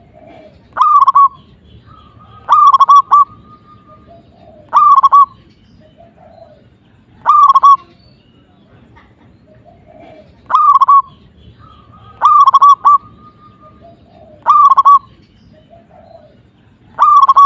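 Zebra dove (perkutut) cooing: eight short, loud cooing phrases repeated every two seconds or so. Some phrases end in a brief held note, and softer, lower coos sound between them.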